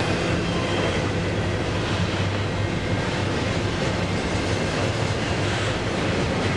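BNSF diesel freight locomotives on a stack train, a steady rumble with a low droning hum and no let-up.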